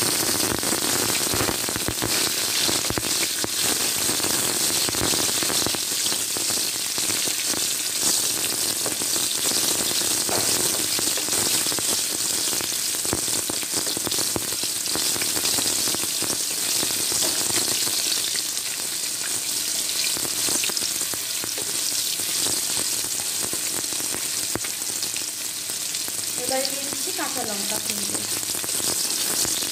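Chopped tomato sizzling steadily in hot mustard oil in a non-stick wok, with bay leaves and dried red chillies, while a wooden spatula stirs and scrapes it around.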